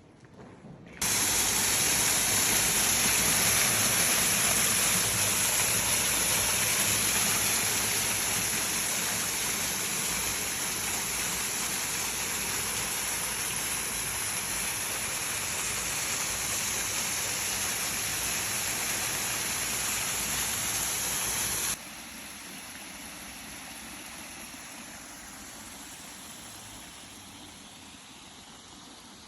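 Steady rushing of running water, loud and even. It cuts off abruptly about three-quarters of the way through, leaving a fainter steady hiss.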